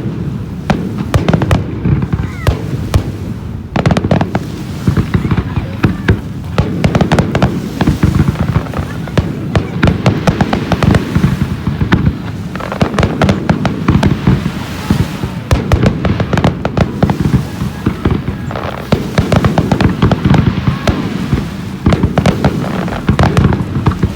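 Fireworks display: a dense, unbroken barrage of sharp firework bangs, many per second.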